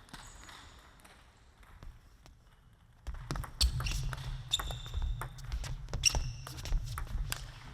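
Table tennis ball being hit and bouncing on the table in a rally: a quick run of sharp knocks, some with a short high ping. From about three seconds in they come over a low rumble of crowd noise in the hall.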